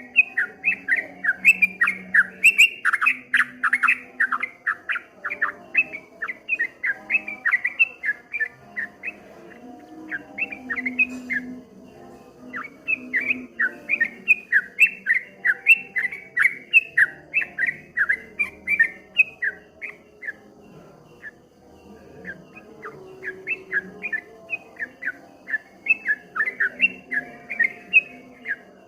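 Yellow-vented bulbul (trucukan, 'kebo' type) singing a fast rolling 'ropel' song of rapid, repeated notes, three or four a second, in three long bouts with two short pauses. A fainter, lower warbling runs underneath.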